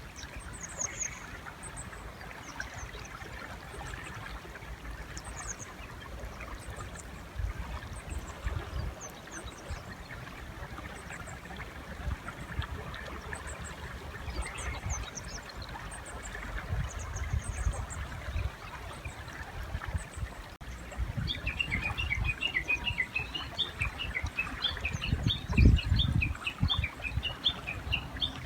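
River water running steadily, with thin, high bird chirps scattered through the first part. About twenty seconds in, a Japanese bush warbler begins a rapid run of repeated notes that continues to the end. Several low thumps sound over it, the loudest a few seconds before the end.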